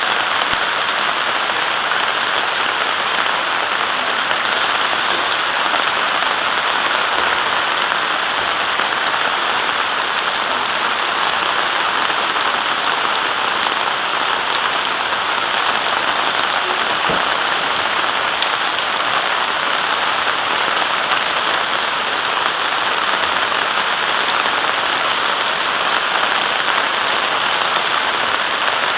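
Rain falling steadily, a loud, even, unbroken hiss.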